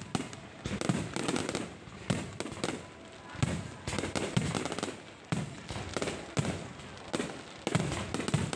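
Low-altitude fireworks going off in a steady run of sharp bangs, about one to two a second, each trailing off in a crackling decay.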